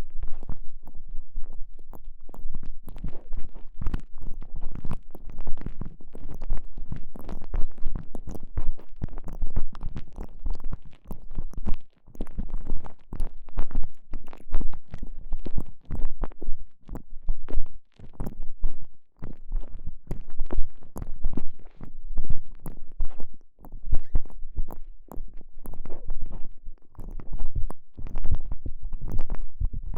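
Microphone held inside a TENGA Egg, the soft elastomer sleeve being squeezed and rubbed against it: a dense, irregular stream of close crackles and low rumbles.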